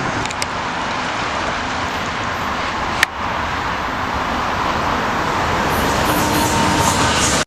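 A VIA Rail passenger train approaching along the track, heard as a steady rushing rumble that grows slightly louder. There is one sharp click about three seconds in.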